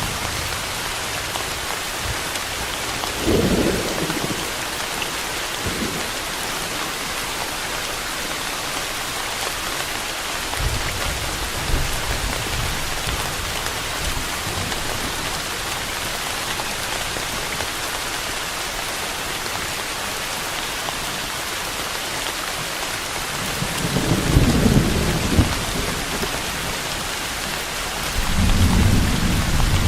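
Steady rain falling, an even hiss, with rolls of distant thunder: a short rumble about three seconds in, a fainter one around the middle, and louder rolls near the end.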